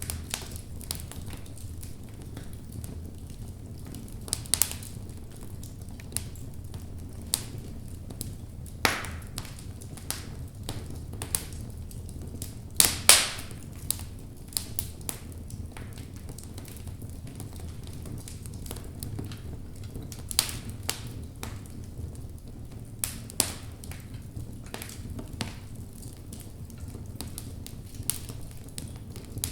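Logs burning in a fireplace: a steady low rumble of flame with irregular sharp crackles and pops, two of them louder about nine and thirteen seconds in.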